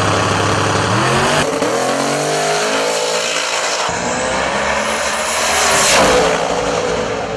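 Twin-turbo small-block Ford V8 in a drag radial Mustang running hard down the strip, its pitch climbing as it accelerates. The sound swells to its loudest about six seconds in.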